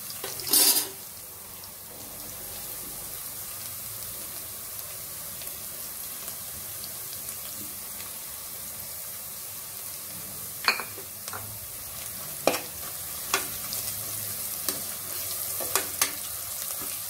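Onions, green chillies and ginger-garlic paste sizzling steadily in hot oil in an aluminium pressure cooker. There is a brief loud crackle about half a second in, and a spatula scrapes and knocks against the pan several times in the second half.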